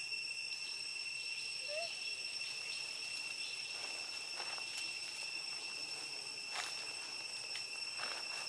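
Insects' steady, high-pitched drone running without a break, with a few short rustles about four seconds in and near the end.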